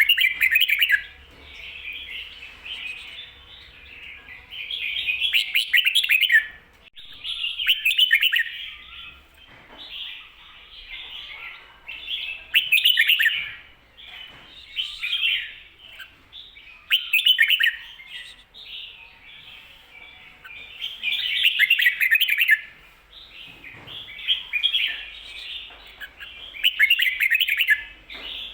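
Red-whiskered bulbul singing: short, rapid warbled phrases repeated about every two seconds, some louder than others. This is the doubled 'kho-ta-ra' song type that keepers play to teach other bulbuls.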